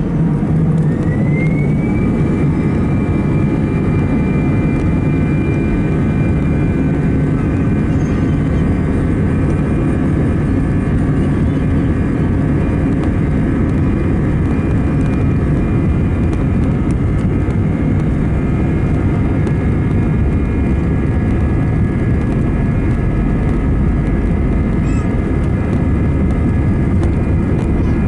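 Jet engines of an Airbus A319-111 (CFM56) heard from inside the cabin. A whine rises over the first two seconds and then holds steady over a loud, continuous rumble, as the engines spool up to high thrust.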